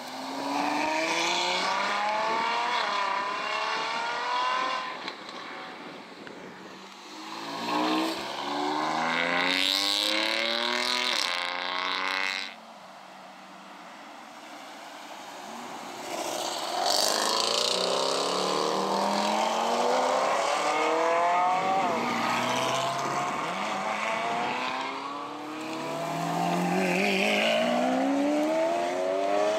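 Several supercars accelerating hard away one after another, among them a Ferrari 812 Superfast's V12 and a Lamborghini Aventador's V12. Each engine revs up through the gears, its pitch climbing and dropping back at each upshift. There is a quieter lull about midway.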